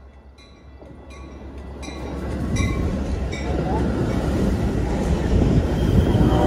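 Locomotive bell ringing at an even pace, about one stroke every three-quarters of a second, while a train's rumble grows steadily louder as it draws close and passes.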